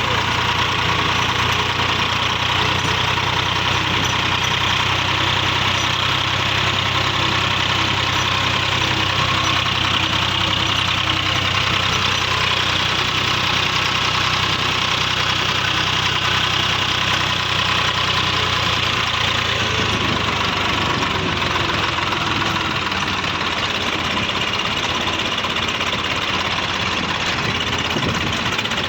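Swaraj 855 tractor's three-cylinder diesel engine running steadily. About twenty seconds in, its low, even hum changes and fades, and the sound becomes slightly quieter.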